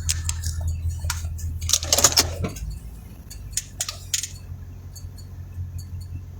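Clicks, knocks and light clinks of equipment being handled, in a quick cluster loudest about two seconds in and dying away after about four seconds, over a low steady hum that drops off about two and a half seconds in.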